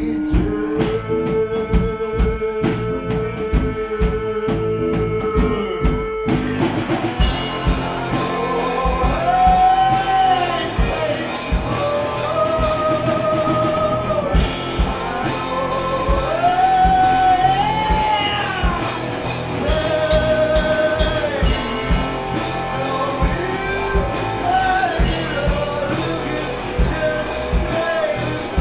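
Live gypsy rock band playing with a sung melody over guitar, accordion, bass and drums. A sparser passage of held notes opens, and the full band comes in about six seconds in, with steady drum hits under the vocal line.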